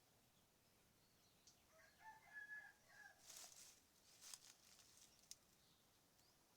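A rooster crowing faintly once, the call lasting about a second, followed by a few soft clicks and short rustles.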